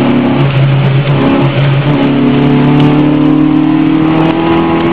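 A motor vehicle's engine running, its pitch rising slowly as it revs up, over steady road noise.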